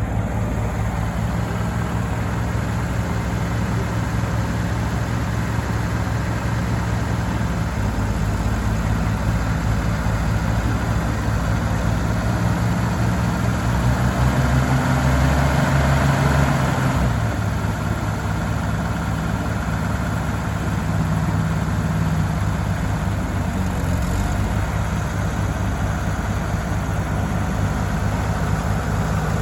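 Oliver 88 tractor's six-cylinder engine running at a steady idle. It picks up briefly about halfway through, then settles back to idle.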